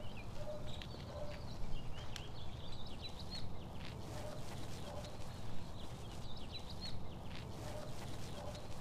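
Birds chirping in a string of short calls over a steady low rumble, with scattered sharp clicks.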